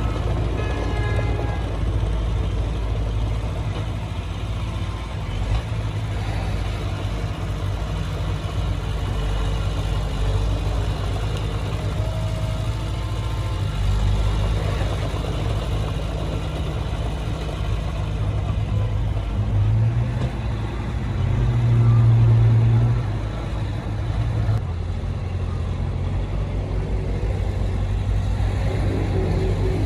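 Heavy diesel engine of earthmoving equipment running steadily, with a brief swell in level about three-quarters of the way through.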